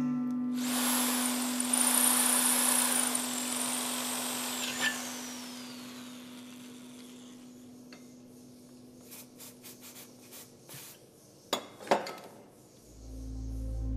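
Electric power tool running on the metal work with a high whine. It is switched off about four seconds in and winds down, and a few light clicks and two sharp knocks follow near the end.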